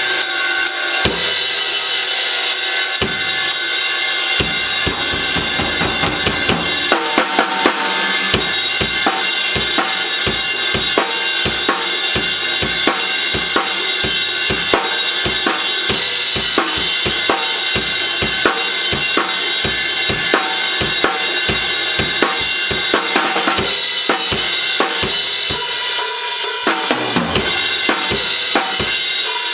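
Drum kit playing a steady beat: regular bass drum strokes under a constant wash of cymbals, with snare hits.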